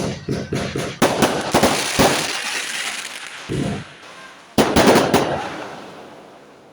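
Fireworks going off: rapid strings of sharp cracks and bangs in two bursts, about a second in and again about four and a half seconds in, each fading away afterwards.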